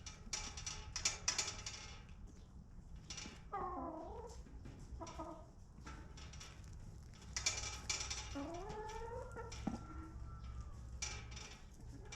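Domestic hens calling in a coop: a few drawn-out calls that bend in pitch, mixed with short bursts of rustling noise over a steady low hum.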